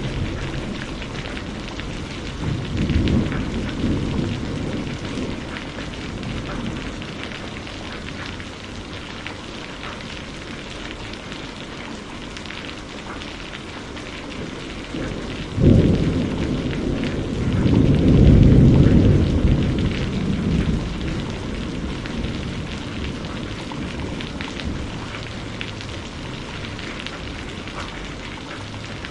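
Steady rain pattering, with thunder: a low rumble about three seconds in, then a sharp crack around the middle that rolls into a long, louder rumble.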